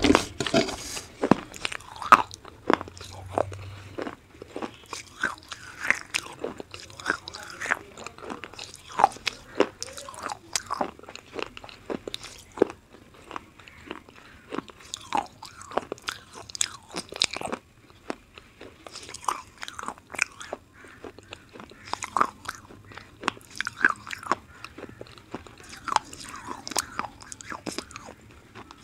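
Close-miked crunching and chewing of brittle slate pencil: sharp, irregular crackling bites, a few each second, with softer grinding between them.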